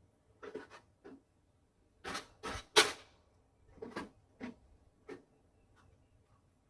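A series of hard knocks and clacks, about nine in six seconds, coming in small clusters, with the loudest single knock near three seconds in.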